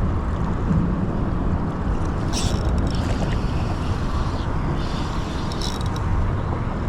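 Wind buffeting the microphone, a steady low rumble, with two short hissy rustles about two and a half and five and a half seconds in.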